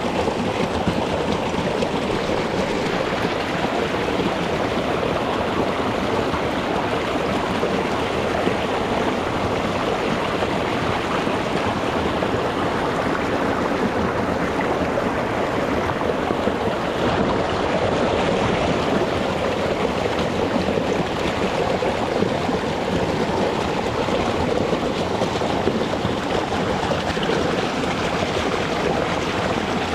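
Small rocky mountain stream running over stones: a steady rushing and babbling of water.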